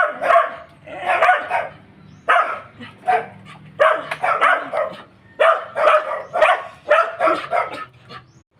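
Dogs barking in quick runs of barks, over and over, stopping shortly before the end.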